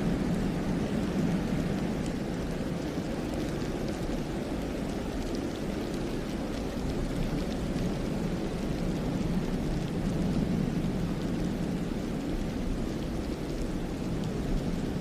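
Wind blowing steadily through a snowy forest, a low rushing rumble with faint scattered ticks.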